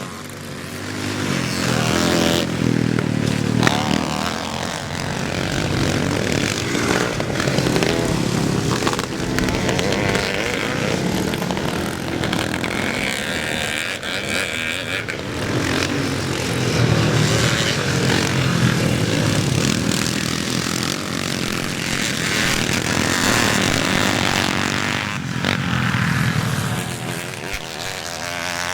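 Classic motocross bikes racing, several engines revving hard and overlapping, their pitch rising and falling as riders accelerate and shut off.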